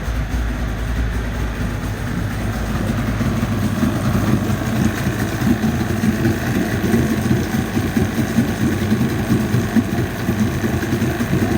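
40 hp Mariner two-stroke outboard motor running steadily at idle.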